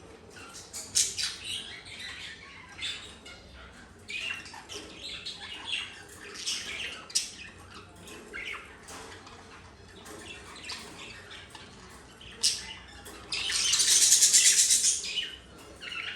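Young budgerigar chick making short scattered chirps and squawks while eating spray millet, with a louder harsh burst lasting about two seconds near the end.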